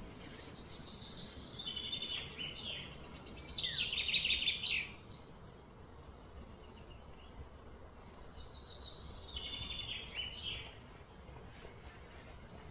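A bird singing two phrases of rapid repeated high notes, the first and louder one starting about a second and a half in and a shorter one several seconds later, over a steady low background hum.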